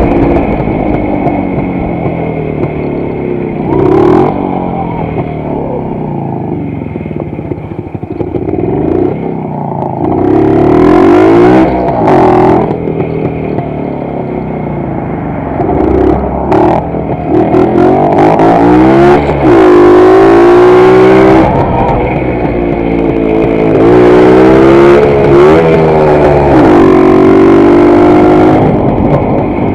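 WSK 125 motorcycle's single-cylinder two-stroke engine under way, its pitch climbing and dropping back over and over as it revs up again and again.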